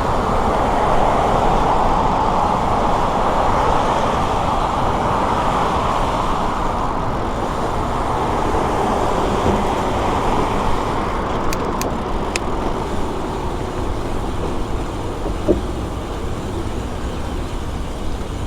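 Steady rushing wind and road noise of a bicycle ride, with a few faint ticks about twelve seconds in and a single short knock a few seconds later.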